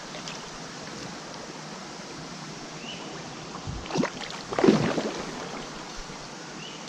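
Steady rush of water pouring over a small waterfall, with two splashes in the water about four and five seconds in, the second the louder.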